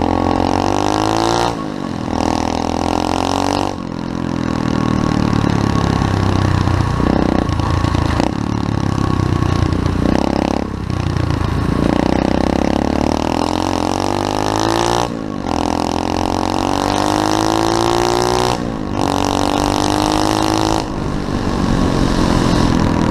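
SSR 125cc pit bike's single-cylinder four-stroke engine revving hard under acceleration. Its pitch climbs and then drops sharply at each gear change, several times over.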